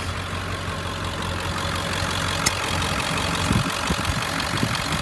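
A 2003 Ford F-550's 7.3-litre V8 turbo-diesel idling steadily, fully warmed up after about half an hour of running.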